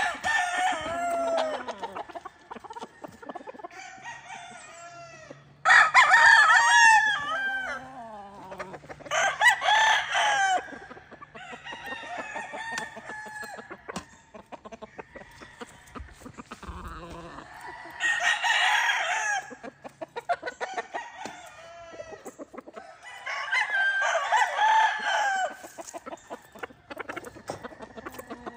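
Several gamefowl roosters crowing in turn, about five loud crows of one to two seconds each, with fainter crows from farther birds in between.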